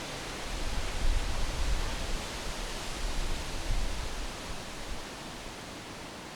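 Wind gusting through backyard trees: a steady rustling hiss, with a low wind rumble on the microphone that swells about half a second in and eases off around five seconds.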